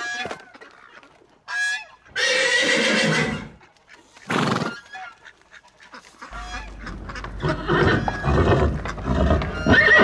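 Horse neighing: a short call, then a longer breathy neigh, and a short blowing burst. In the second half comes a low rumble with irregular knocks and more horse calls.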